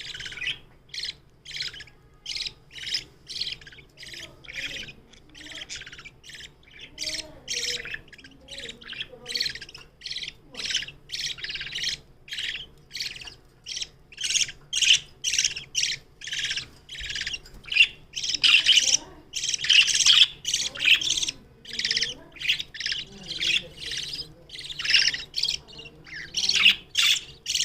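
Budgerigar chicks about three weeks old giving harsh, raspy begging calls, one to two a second, growing louder and denser about halfway through.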